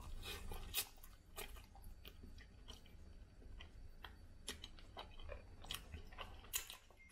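A person chewing food, with irregular soft mouth clicks and smacks about once or twice a second over a low steady hum.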